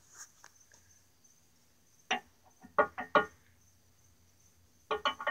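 Crickets trilling steadily, with a few short clinks about two to three seconds in.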